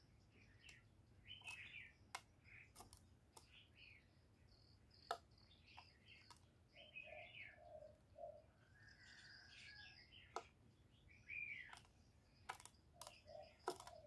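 Faint chirping of small birds: short downward-sliding notes every second or so, with a few sharp clicks scattered between them.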